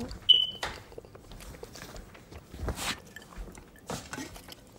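Close-miked eating sounds: wet chewing, smacks and mouth clicks from a mouthful of food, with a sharp click just after the start and a short noisy swell near the middle.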